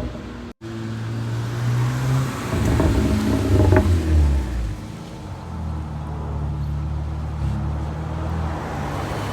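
BMW 335i's N54 twin-turbo straight-six, exhaling through a carbon exhaust with the resonator deleted, on a pull kept to modest revs. The engine note climbs for a few seconds, drops off as the throttle is lifted about four seconds in, then settles into a steady cruise.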